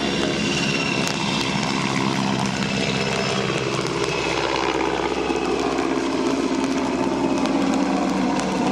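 Czech Air Force search-and-rescue helicopter running steadily, its engine and rotor giving a steady, even drone.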